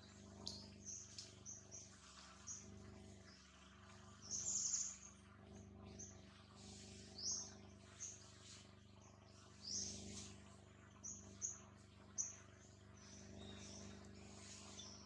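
Birds chirping: scattered short, high chirps, the loudest about four and a half seconds in, over a faint steady background hum.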